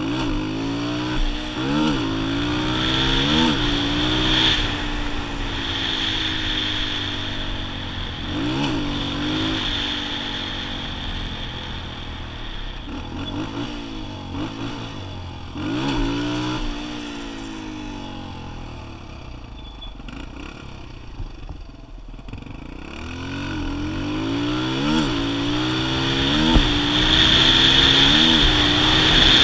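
Kawasaki KLX125 dirt bike's single-cylinder four-stroke engine running under way. Its pitch climbs and drops back several times as it pulls through the gears, eases off around the middle, then builds up louder again near the end.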